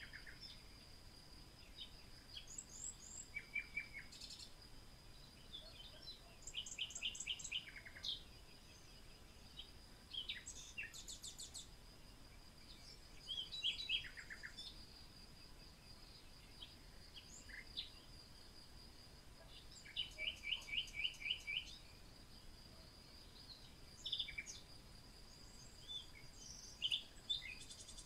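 Wild birds singing in short chirps and quick trills, several phrases a few seconds apart, over a steady high-pitched insect-like whine.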